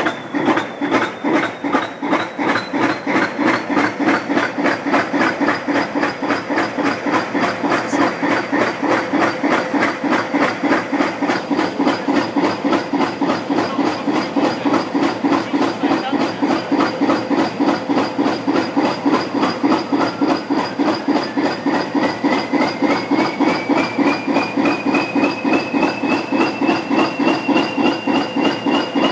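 Class 20 diesel locomotive's English Electric 8SVT engine running after a cold start, with an even rhythmic beat of about three a second and a high whine that rises in pitch over the last third.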